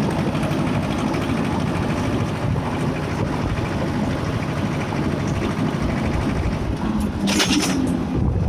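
Escort 335 tractor engine running steadily under way, with a short hiss about seven seconds in.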